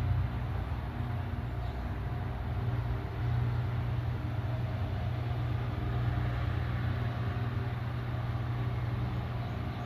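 Steady low mechanical rumble with a faint hum, even throughout.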